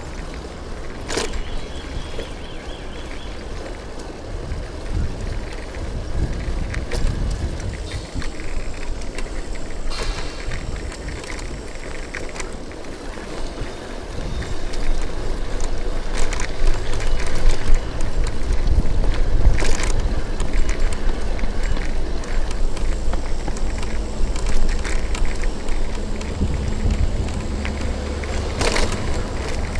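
Street sound heard from a moving bicycle in city traffic: a steady low rumble of wind on the microphone and road noise, louder from about halfway through. Three sharp clicks cut through it.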